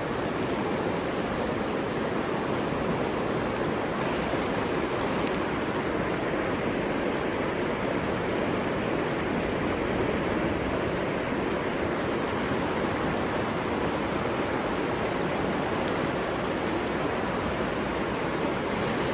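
A river flowing over rocks: a steady, even rushing of water.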